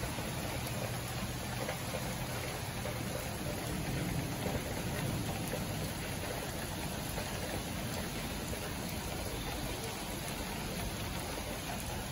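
Steady rain falling, an even hiss of noise throughout, with a faint low hum in the first few seconds.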